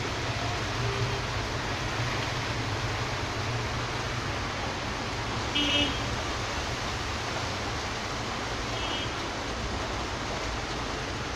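Steady hiss of rain, with a short vehicle horn toot about halfway through and a fainter toot a few seconds later.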